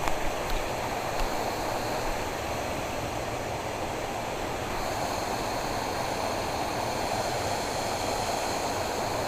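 Steady rushing of flowing water, an even hiss that holds at one level throughout, with a few faint clicks in the first second.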